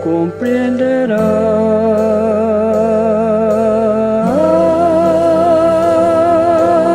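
Gospel song: a long sung note with vibrato over steady bass and accompaniment, stepping up to a higher held note about four seconds in.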